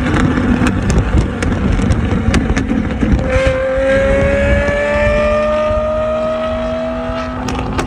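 Car engine with road rumble. About three seconds in, a strong engine note comes in and climbs slowly in pitch for about four seconds as the car accelerates.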